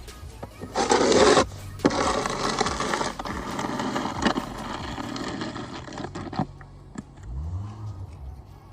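Snow shovel scraping along the ground in several long strokes, the loudest about a second in. A short low hum rises and falls near the end.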